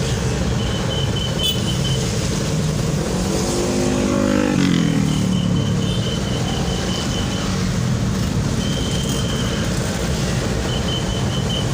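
Road traffic noise with engines running steadily in slow-moving traffic; about four seconds in, a vehicle engine's pitch rises and then falls. A high, rapid beeping comes and goes several times.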